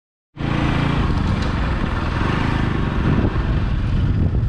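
Motorcycle engine running on the move, starting abruptly after a moment of silence and then holding steady.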